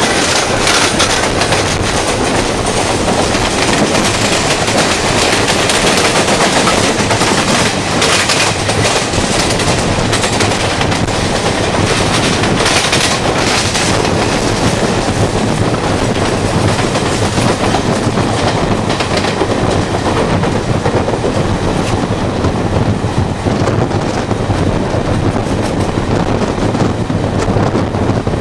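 Two trains running side by side: a moving EMU local and the Deccan Queen express's coaches passing close alongside on the next track. The sound is a loud, steady rumble of wheels with rapid clickety-clack over rail joints, and runs of sharper clacks in the middle.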